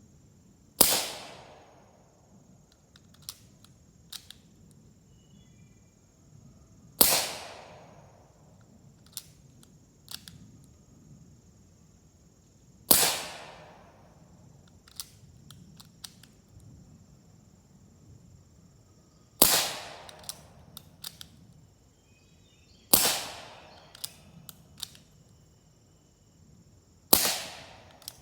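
AEA Max .357/9mm PCP air pistol firing six shots, several seconds apart, each a sharp report that dies away quickly, through a Ronin moderator on the muzzle. Between shots there are small clicks of the action being worked.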